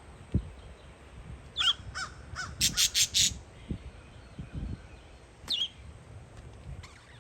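Crow cawing: a quick run of four harsh caws, mixed with shorter, falling bird calls before and after. Wind buffets the microphone in low gusts throughout.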